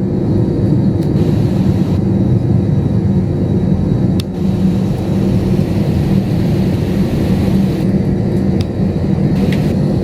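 Jet airliner's engines heard from inside the passenger cabin: a loud, steady rumble with a low hum, and a couple of faint clicks.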